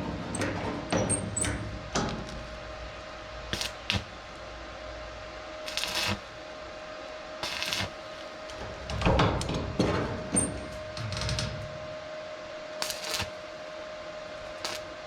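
Intermittent knocks and clinks of tools and metal being handled, with several short hissing bursts and a faint steady hum underneath.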